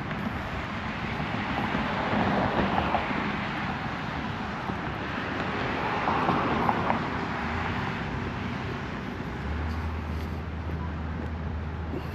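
Road traffic: cars passing, rising and fading twice, then a steady low engine hum in the second half.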